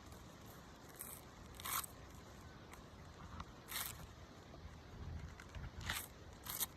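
A knife shaving the husk of a green coconut in short scraping strokes, five of them at uneven gaps.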